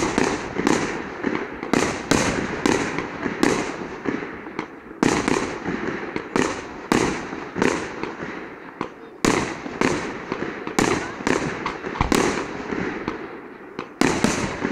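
Fireworks display: a rapid, steady run of aerial shell bursts, about two sharp bangs a second, each with an echoing tail that runs into the next.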